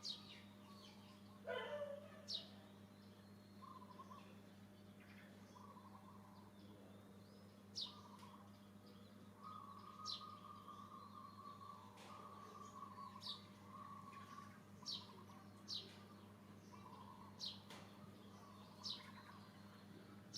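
Faint bird chirps: short, high, falling notes repeating every second or two, over a steady low hum.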